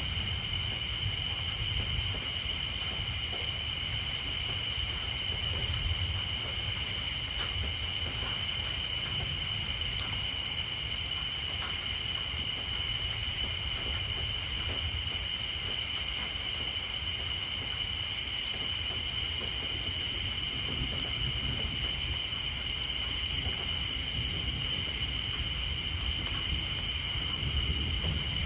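Distant thunder rumbling low and swelling now and then, with rain ticking on a tin roof and a steady high-pitched chorus of tree frogs.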